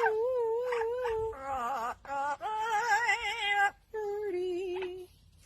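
A voice singing held notes whose pitch wavers, in about four short phrases with brief breaks between them. The second phrase is lower than the others.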